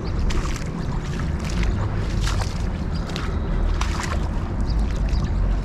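Steady low rumble of wind buffeting the microphone beside a flowing river, with irregular short crackles and rustles as the angler moves along the bank.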